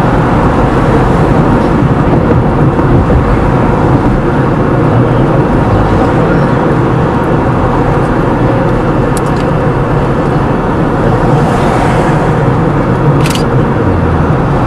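Steady road and engine noise of a car being driven, with a short sharp click near the end.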